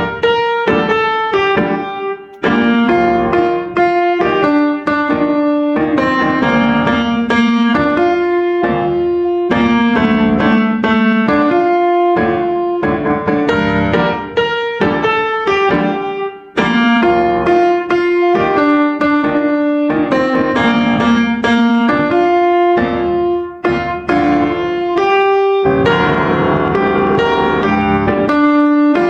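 Background piano music playing a gentle melody of struck notes, with chords below and notes steadily repeating.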